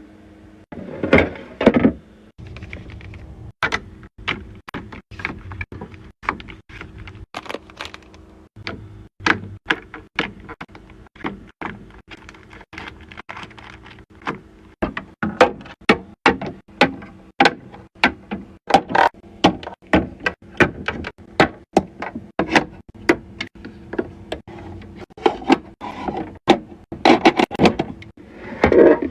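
Skincare bottles and jars being set down and arranged on the shelves of a skincare fridge: a busy run of short plastic and glass clicks, taps and knocks, about one to two a second and thicker in the second half, over a faint steady hum.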